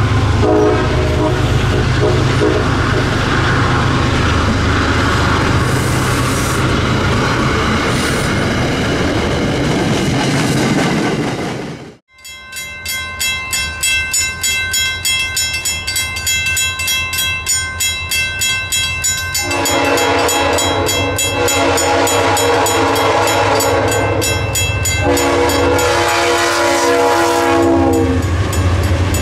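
An MBTA commuter train passes close by, its horn dying away in the first second, then wheels and cars rumbling past. After a cut, a grade-crossing bell rings steadily. About two-thirds of the way through, a Providence and Worcester freight locomotive's horn sounds two long blasts as the locomotive and its freight cars roll up and past.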